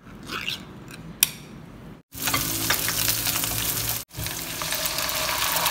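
A canned fish tin's ring-pull snapped open with one sharp click about a second in. Then sliced onion sizzling loudly in hot oil in a pan as it is stirred, the sizzle breaking off briefly and starting again.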